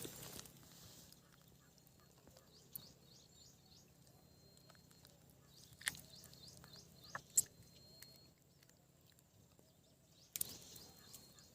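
Faint bird chirping: two quick runs of short repeated notes over a thin steady high tone, with a few sharp clicks and a brief rustle near the end.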